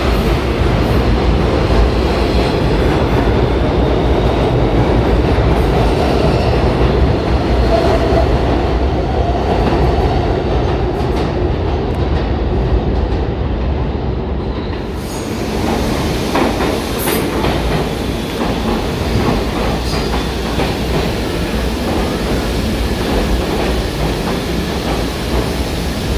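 New York City subway train running through the station at the platform, a loud steady rumble with wheels clacking over rail joints. About fifteen seconds in the sound turns brighter, with sharp metallic clicks.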